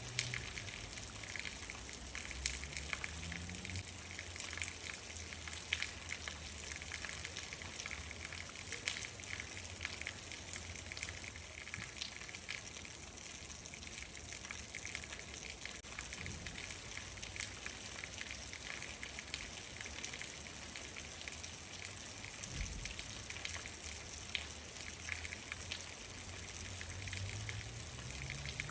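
Steady rain falling, with many individual drops ticking sharply over an even hiss and a low rumble underneath.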